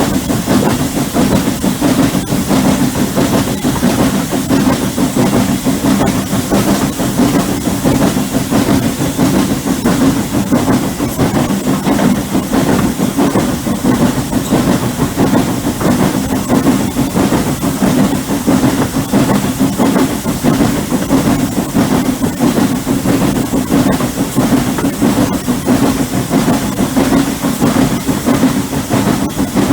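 Steam-hauled heritage train running steadily along the line: a continuous heavy rumble of wheels on rail with a hiss over it.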